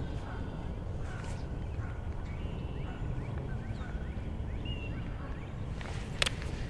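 Birds calling faintly over a steady low rumble, with one sharp click near the end.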